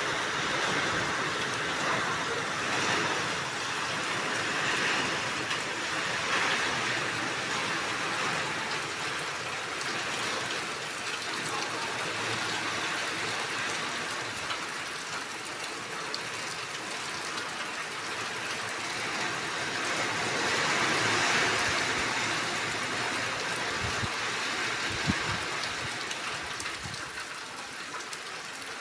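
Rain falling hard, an even hiss that swells and eases several times, with a few brief low thumps near the end.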